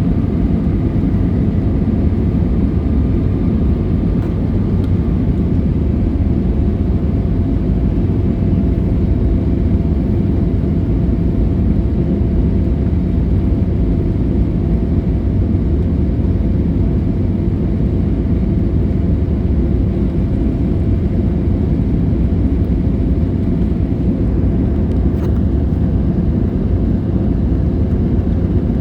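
Steady jet airliner cabin noise heard from a window seat: the engines' drone and rushing air, heaviest in the low end, with a faint higher whine that fades about six seconds in.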